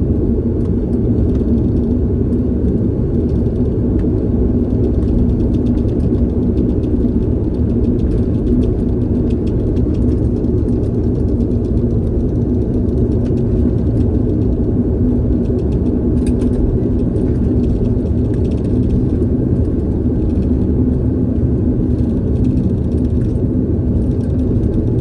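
Steady rumble of an airliner's engines heard inside the passenger cabin as it taxis after landing, with a low steady hum and faint scattered rattles.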